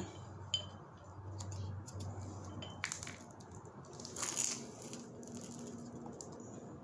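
Light handling noises: a few small clicks and clinks and a short scrape about four seconds in, over a low steady hum.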